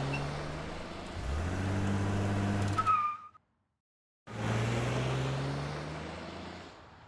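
Car engines pulling away, one after the other: the first runs and speeds up, ending in a brief high squeal about three seconds in, then the sound cuts out for about a second before a second car's engine comes in and fades away.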